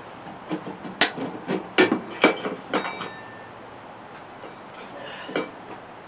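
Four sharp metal knocks and clanks, about half a second apart, then a fainter one near the end: hand tools working on a mower deck's spindle assembly while a bent part is forced back into place.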